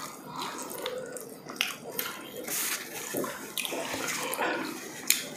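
Close-up eating sounds: wet chewing and lip smacks as sauce-covered pork ribs are eaten and pulled apart by hand, a run of irregular moist clicks, with one sharper smack near the end.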